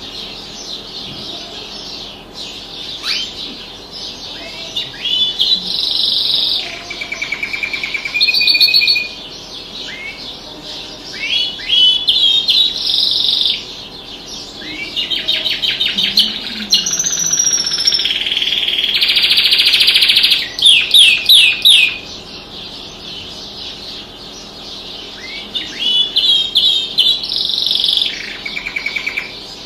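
Songbird singing in loud phrases of rapid chirps, quick rising sweeps and fast buzzy trills, with short pauses of a few seconds between phrases. This is a bird-training (masteran) recording.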